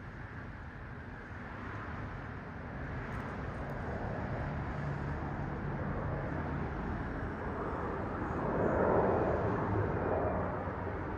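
Airplane engine noise, a steady rushing roar with a low hum under it, building gradually and loudest near the end before easing slightly.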